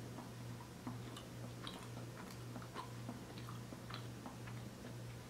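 Faint chewing of a Krispy Kreme original glazed doughnut: small, irregular wet mouth clicks and smacks, over a steady low hum.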